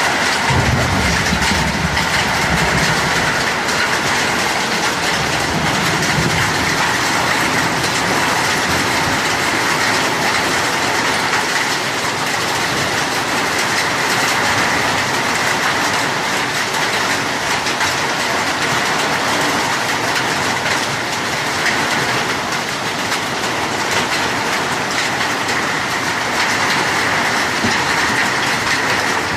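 Rain falling steadily, a loud even hiss with no let-up.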